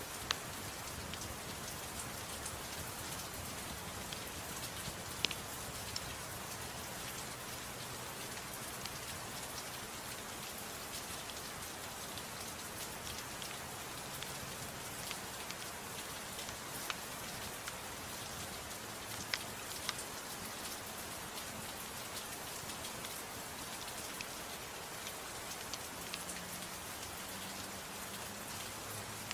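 Soft, steady rain, with a few sharp pops scattered through it.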